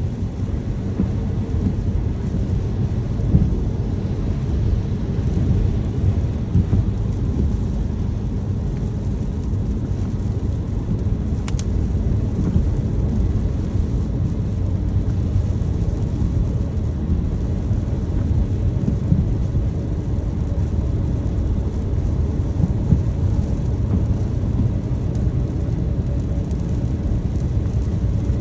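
Car driving in the rain: a steady low rumble of road and engine noise under the hiss of rain, with a single sharp click about twelve seconds in.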